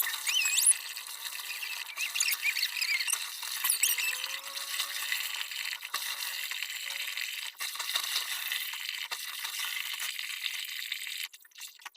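Clothes being washed by hand: wet, soapy fabric rubbed and scrubbed together, squeaking in the first few seconds and then a steady rubbing that stops about a second before the end.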